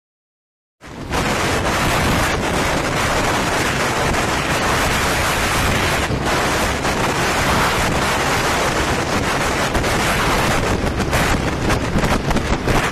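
Heavy wind noise buffeting the microphone on a TVS Ntorq scooter ridden at speed. It starts abruptly about a second in and turns gustier near the end.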